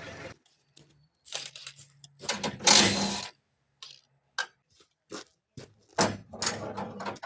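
A run of irregular clicks and clanks, with a few longer rattling, scraping stretches, the loudest about two and a half seconds in: metal parts or tools being handled.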